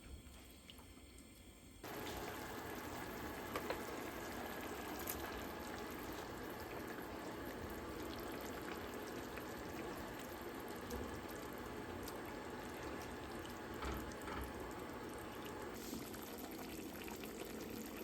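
Water running from a kitchen tap into a sink, a steady rush that starts suddenly about two seconds in, with a few small knocks.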